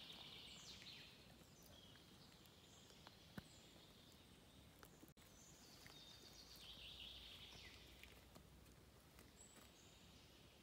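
Faint songbird song in a quiet forest: a descending trilled phrase at the start and another about six seconds in, with a few short higher notes between.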